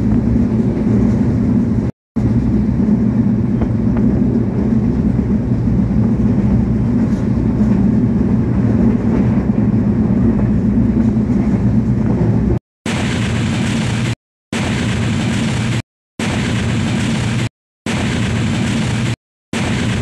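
Steady low rumble of a passenger train running, heard at an open carriage window. About two-thirds of the way through it gives way to a brighter rushing of wheels and air, chopped by short, abrupt gaps of silence every second and a half or so.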